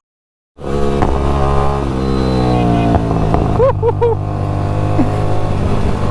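Sport motorcycle with a loud aftermarket exhaust running on the road. It comes in sharply after a brief silence, its pitch falls as the engine slows off the throttle, then it runs on steadily. Three short high chirps sound around the middle.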